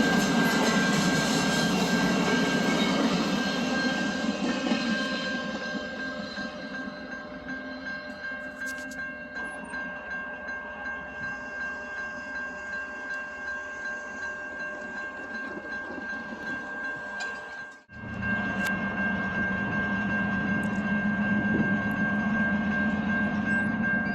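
A train running past on the rails, loud at first and fading over the first several seconds. A steady high tone runs through it. The sound drops out abruptly about 18 seconds in, and the rumble of a train returns straight after.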